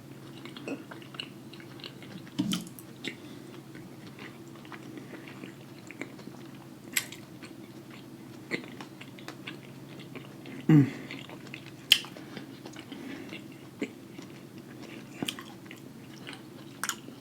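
Close-up chewing with wet mouth clicks and smacking, over a steady low hum. About eleven seconds in there is a brief low throaty sound, followed by a loud sharp click.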